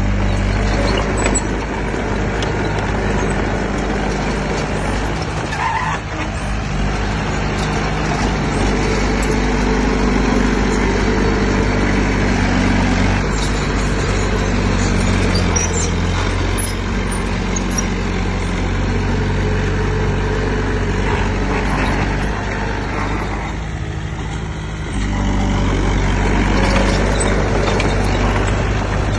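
Heavy diesel engine of earthmoving machinery running under load. The engine note shifts up and down several times and eases off briefly near the end before picking up again.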